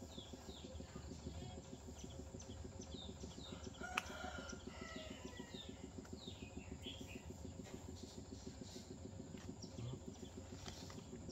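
Faint birds chirping and calling: many short, quick chirps throughout, and a longer pitched call just after a single sharp click about four seconds in, over a steady low hum.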